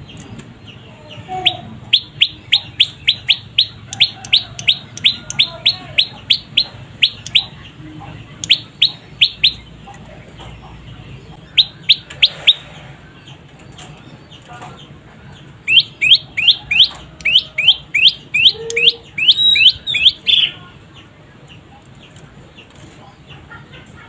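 A young prenjak lumut songbird calling in runs of short, sharp rising chirps, about three a second. The longest runs come near the start and in the second half, with two short bursts between them.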